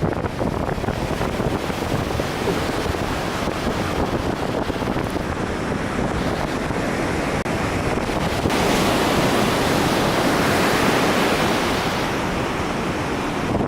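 Wind buffeting the microphone: a steady rushing that grows louder for a few seconds past the middle.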